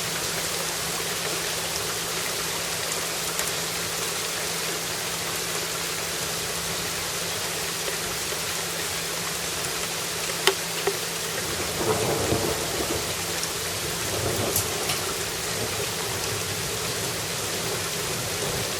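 Steady rain falling, with a rumble of thunder rolling in about two-thirds of the way through and lasting a few seconds. A few sharp drip clicks stand out over the rain.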